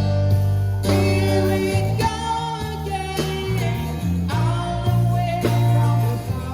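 A man singing a song in long, held notes with vibrato, backed by guitar and a steady bass line.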